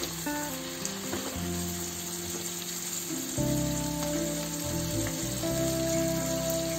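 Rice and vegetables sizzling in a hot wok over a low flame while a spatula stirs them together, with background music of held notes underneath.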